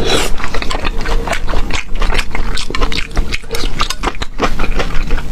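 Close-miked eating sounds: a person chewing and slurping food with quick, irregular wet clicks and smacks.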